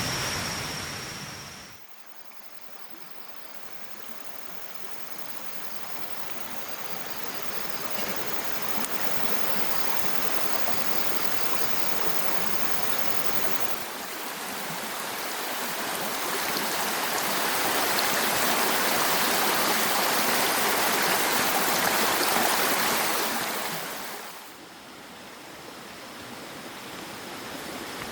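Steady rushing water, like a stream or small waterfall. It drops off suddenly about two seconds in and again near the end, then builds back up. A faint, steady high tone runs through the first half.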